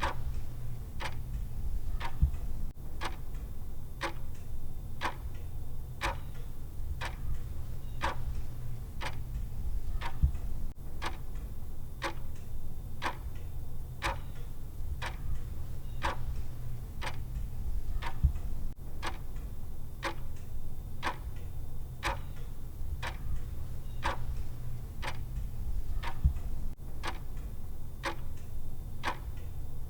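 Clock ticking sound of a countdown timer: even, regular ticks over a steady low hum.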